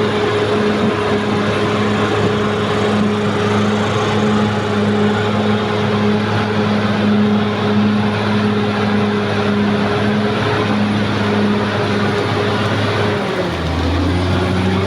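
Caterpillar D6R XL bulldozer's diesel engine running steadily, then dropping in pitch about thirteen seconds in as the revs come down.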